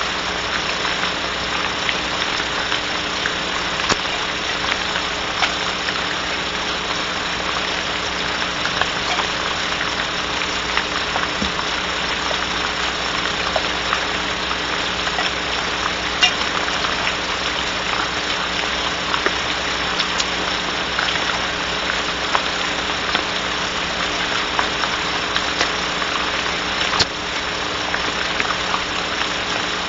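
Rain pattering on a barn owl nest box: a steady hiss of rain with many small irregular drop clicks, over a steady electrical hum from the nest-box camera's microphone.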